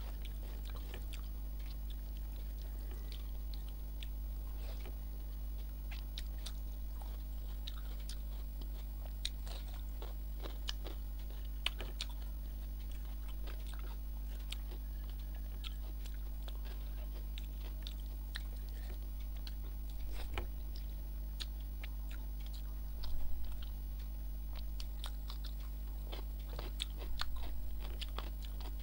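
Close-miked eating sounds: a person chewing a mouthful of rice and curry, with scattered small mouth clicks and fingers working rice on a plate. A steady low electrical hum runs underneath.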